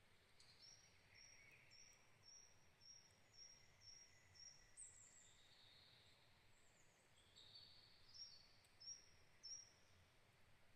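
Faint forest birdsong: one bird repeats a short high note about two to three times a second, another answers with scattered chirps and a quick falling whistle, and a second run of high notes comes near the end.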